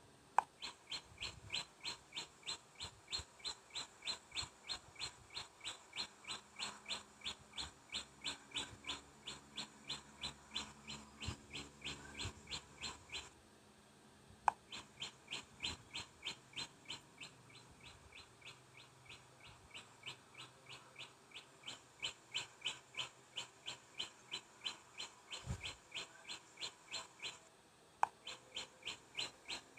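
A bird chirping over and over at an even pace, about two short high chirps a second, with two brief pauses, about halfway through and near the end.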